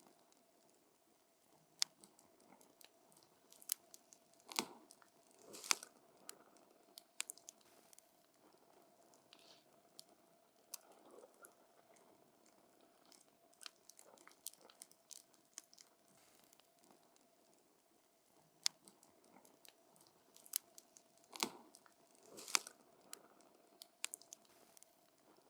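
Wood campfire crackling: scattered sharp pops and snaps of burning wood, with louder clusters of pops a few seconds in and again near the end.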